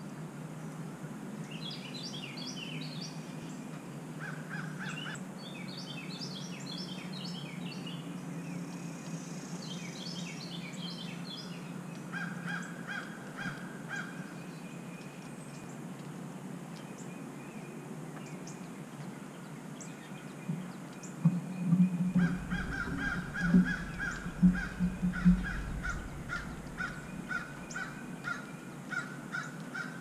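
Wild birds calling: clusters of quick high chirps, and harsher repeated calls that carry on through the second half. A run of loud low thumps comes about two-thirds of the way through.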